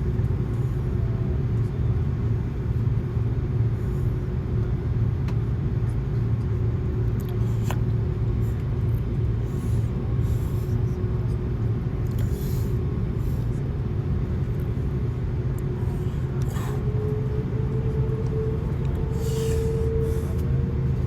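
Steady low rumble and hum of cabin noise inside an Airbus A330-200, with a steady tone that rises slightly in pitch near the end. A few faint clicks and rustles are mixed in.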